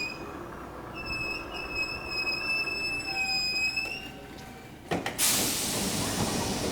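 Electric commuter train braking to a stop at a platform: a thin high squeal of wheels and brakes for a few seconds, then about five seconds in a sudden loud hiss of compressed air as the brakes are released at the stop.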